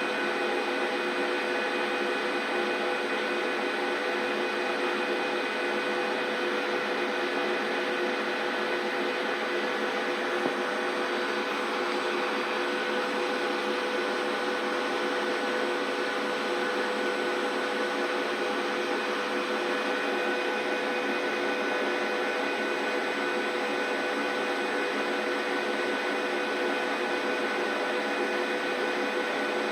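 Large 39 kg commercial washing machine running, a steady motor hum and whine with several held tones over a wash of noise, unchanging throughout.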